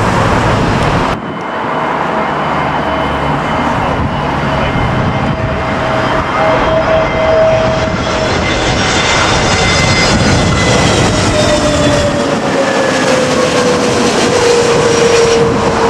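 Jet airliner on final approach passing low overhead, its engines making a loud rushing noise with a whine that falls in pitch in the second half as it goes by.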